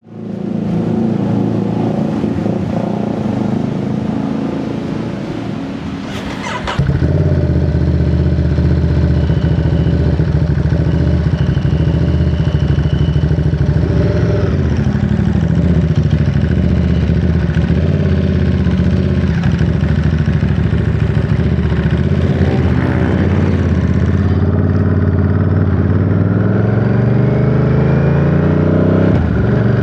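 Ducati Monster 937's 937 cc Testastretta L-twin engine running on the move. It is quieter for the first six seconds or so, with a sharp click about six seconds in, then louder and steady, its pitch falling and rising with road speed, and climbing near the end as the bike accelerates.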